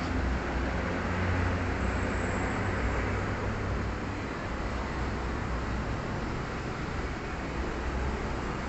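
Steady low rumble and hiss of background noise, with no distinct knocks or clicks.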